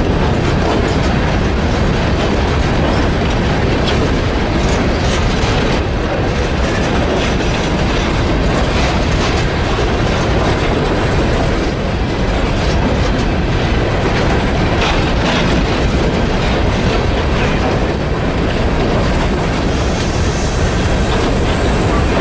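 Freight train cars rolling past close by: a steady, loud rumble of wheels on the rails with clickety-clack over the rail joints.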